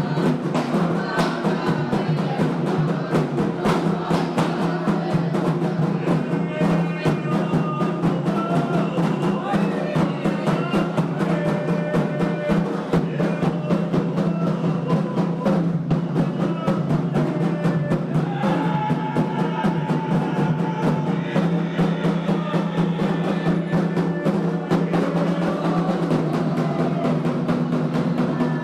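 Candomblé ritual drumming: atabaque hand drums play a fast, steady rhythm, with voices chanting over it.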